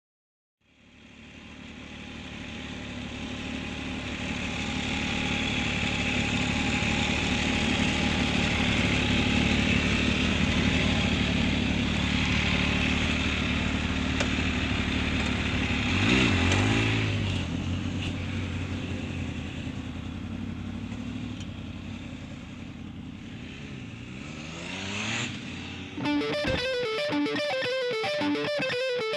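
Motorcycle engine running steadily on the move, fading in from silence over the first couple of seconds. Its pitch wavers about halfway through and climbs again a few seconds before the end. Then electric guitar music cuts in abruptly for the last few seconds.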